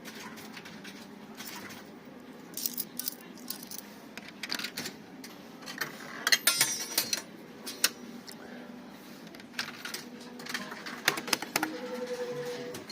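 Coins being fed into a coin-operated fruit machine, a string of sharp metallic clicks and drops, with a dense rattle about six seconds in. A short steady beep from the machine sounds near the end.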